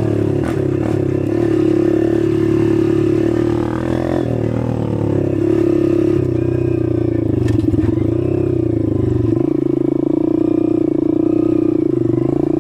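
Dirt bike engine running at fairly steady revs, its pitch wavering a little, with a brief drop in revs about nine seconds in.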